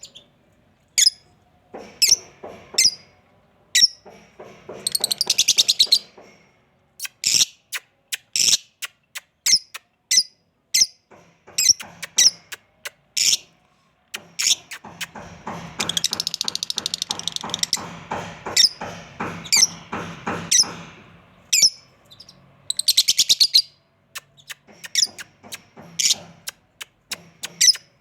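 Pet parrots calling: many short, sharp, high-pitched calls scattered throughout, broken by longer bouts of rapid, buzzy chattering.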